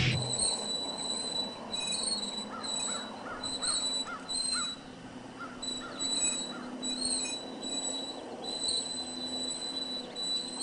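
A small bird gives a run of about nine short chirps, two or three a second, partway through. Behind it are a steady high-pitched whine and a faint outdoor hiss.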